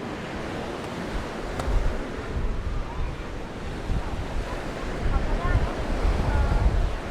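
Mediterranean waves breaking and washing onto a sandy beach, with wind buffeting the microphone in gusts that grow stronger in the second half.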